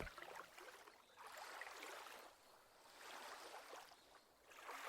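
Faint lake water lapping gently at the shore, in three soft swells about a second and a half apart.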